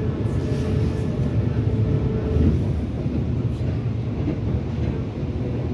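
Moving passenger train heard from inside the coach: a steady rumble of wheels on the rails, with a faint steady whine that stops about two and a half seconds in.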